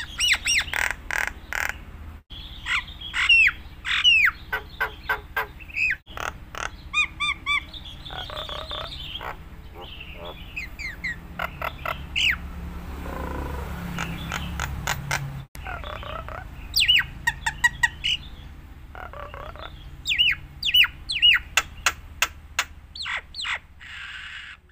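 Jalak Nias, a starling, singing a long, varied song of quick whistled notes, chirps and harsh squawks in rapid runs, over a steady low hum. The sound drops out for an instant three times.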